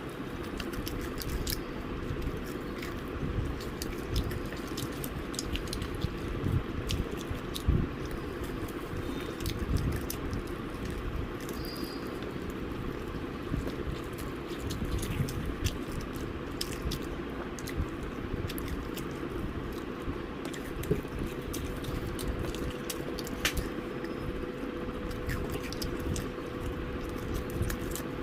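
A person chewing and biting fried chicken, with many small, irregular mouth clicks and smacks, over a steady faint hum.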